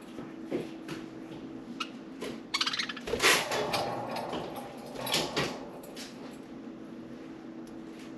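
Budgerigars chirping and chattering in short high bursts and quick trills, with a louder clatter about three seconds in, over a faint steady hum.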